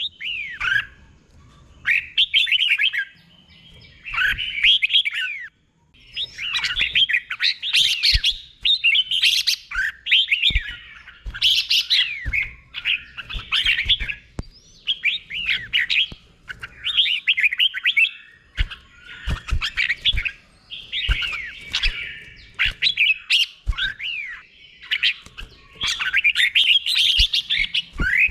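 Red-whiskered bulbul singing short, clear warbled phrases over and over, about one a second with brief gaps between them. Occasional sharp clicks come between the phrases.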